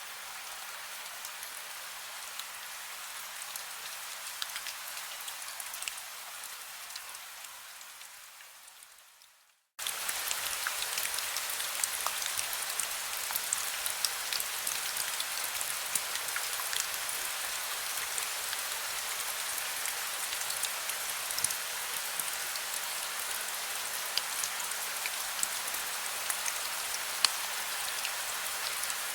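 Heavy rain falling, with many individual drop hits. The rain fades away to a moment of silence about nine seconds in, then cuts back in suddenly, louder and brighter.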